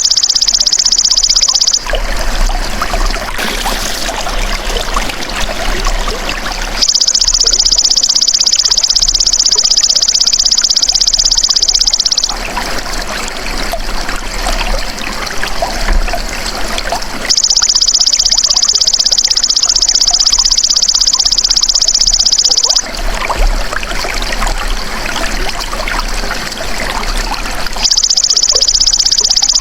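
Belalang emas (golden grasshopper) song, a continuous high-pitched buzzing trill, alternating about every five seconds with the trickle of running water. Each switch between the two is abrupt, as in an edited loop.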